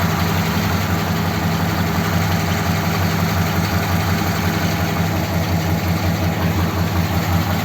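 1957 Ford Thunderbird's V8 engine idling steadily.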